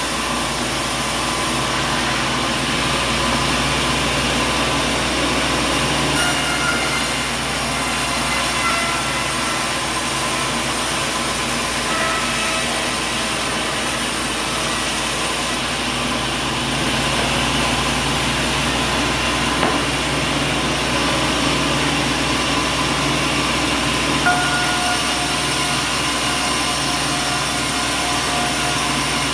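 Sawmill machinery running steadily, a dense mechanical din with faint whines that come and go, once around a quarter of the way in and again near the end.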